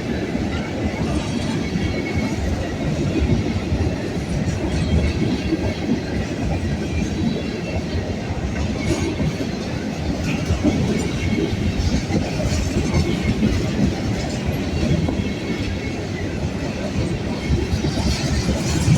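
A long freight train rolling steadily past, the wheels of its cars running on the rails.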